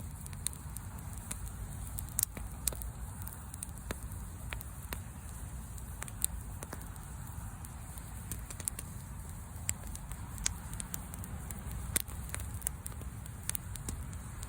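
Wood fire crackling, with irregular sharp pops, a few of them loud, over a steady low rumble.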